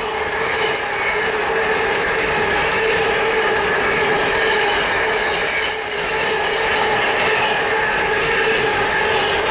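Container wagons of a freight train rolling past at speed: a continuous rush of wheel and rail noise with a steady ringing tone over it, dipping briefly about six seconds in.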